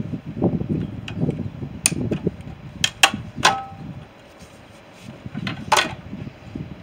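Scrap metal parts being handled: about six sharp metallic clinks and knocks, one of them ringing briefly, over a low rumbling handling noise.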